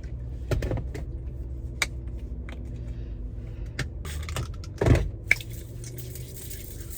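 Scattered small clicks and knocks of a plastic bottle and its cap being handled, with one louder knock about five seconds in, over a steady low hum.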